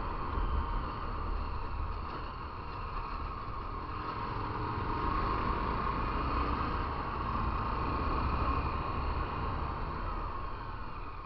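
Motorcycle engine running under way with wind rushing over the microphone, a steady rumble that swells a little through the middle and eases near the end.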